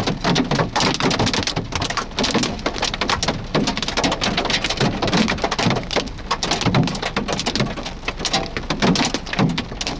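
Big hailstones falling with rain, a dense, steady clatter of sharp impacts.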